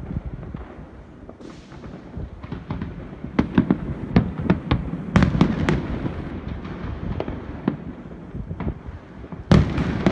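Aerial fireworks bursting: a string of sharp bangs and booms over a steady low rumble. The bangs come thickest around the middle, and one loud burst comes near the end.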